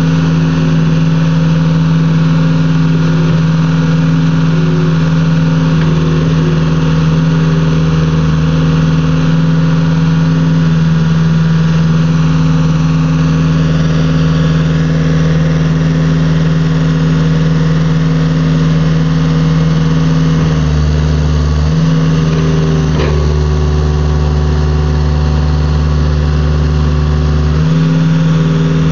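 Cat 262B skid steer's diesel engine running steadily. The engine note dips briefly about eleven seconds in and changes again from about twenty-one seconds until near the end.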